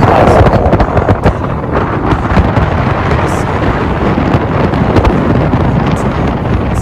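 Strong wind buffeting the microphone, a loud, rough rumble with irregular gusts.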